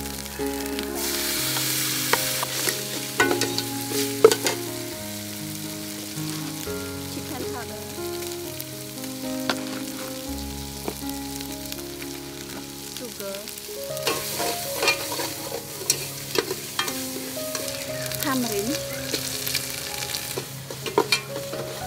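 Lemongrass herb paste sizzling in hot oil in a stainless steel pot, stirred and scraped with a metal ladle that clicks against the pot's sides and bottom. The sizzle swells about a second in and again around the middle.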